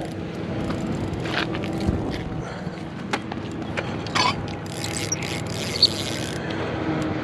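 Fishing reel being worked while a hooked trout is played: the reel's gears and clicking ratchet run with rapid fine clicks throughout, thickening into a denser rattle for a couple of seconds past the middle.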